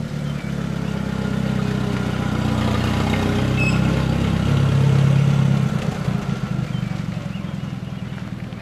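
A 1947 jeep's engine running after starting. It grows louder up to about five seconds in, then fades away.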